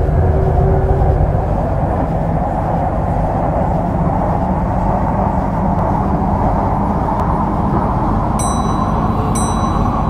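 MTR C-Train electric metro train running on the track, a steady rumble and rail noise heard from the cab.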